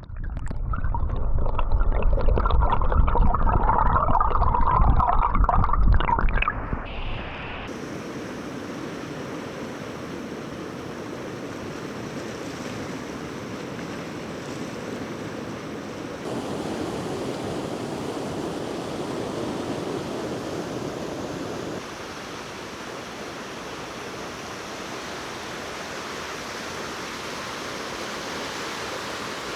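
Water rushing over rocks below a river dam, a steady roar of noise. It is loudest with a deep rumble for the first seven seconds or so, then settles to a quieter, even rush that shifts slightly twice.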